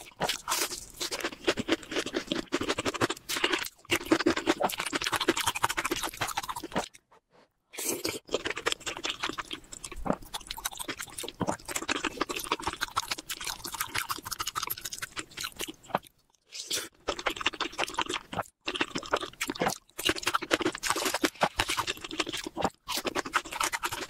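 Close-miked eating sounds: a person chewing mouthfuls of food in a creamy sauce, a fast run of small moist clicks and crunches, broken by two short silences.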